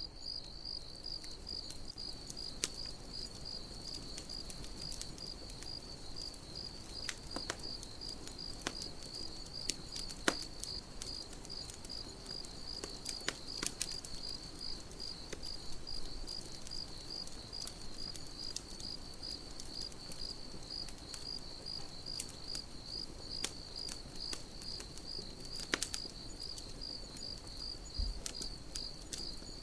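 Crickets chirping in a steady, evenly pulsed high trill, over a crackling campfire that gives scattered sharp pops, a few of them louder.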